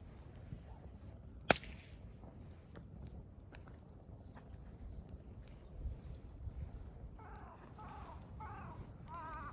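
Wood fire crackling with scattered small pops and one loud sharp crack about a second and a half in. Wild birds call over it: a short run of high repeated notes in the middle, then a lower wavering call four times near the end.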